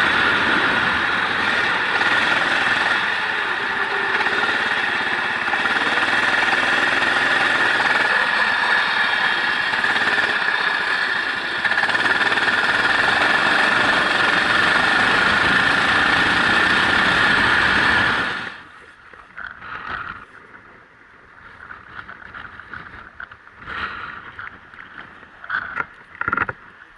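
Onboard sound of a race vehicle running at speed on a wet track: steady engine and wind noise, cutting off abruptly about eighteen seconds in, after which only faint scattered knocks remain.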